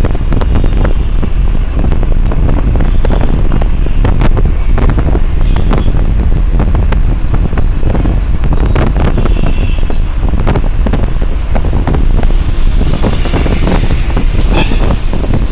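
Heavy wind buffeting on the microphone, a loud rough rumble full of crackles, over the noise of road traffic.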